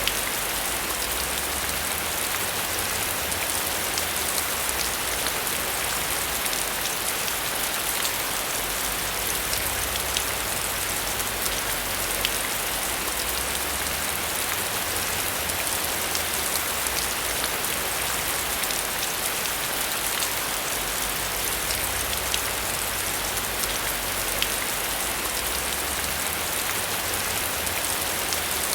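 Heavy rain falling steadily: a dense hiss of drops with scattered sharper drop hits and a low rumble that swells and fades.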